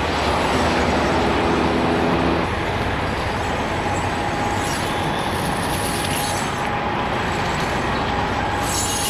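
Steady running noise of a large vehicle, with a low hum that stops about two and a half seconds in.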